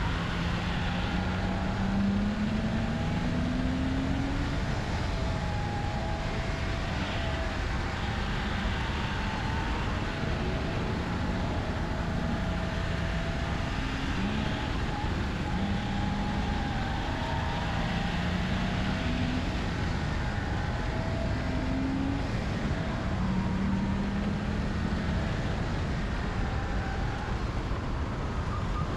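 BMW E30 engine driven hard, its pitch repeatedly rising under acceleration and then dropping at each shift or lift, over heavy wind and road noise.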